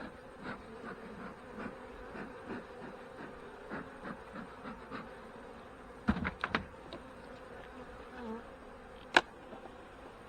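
Honey bees buzzing steadily around an open hive. A quick cluster of knocks about six seconds in and one sharp click about nine seconds in.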